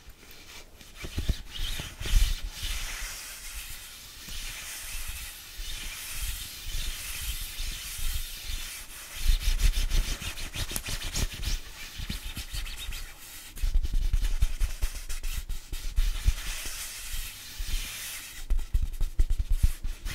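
Close-miked ASMR rubbing and scratching against the microphone, with irregular deep thumps. Near the end it turns into a quick run of clicks.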